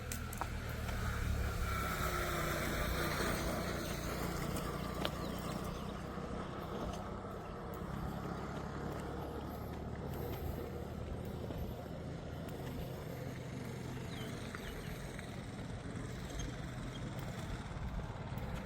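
Outdoor ambience with a steady low motor-vehicle rumble. The vehicle noise swells in the first few seconds and then eases off.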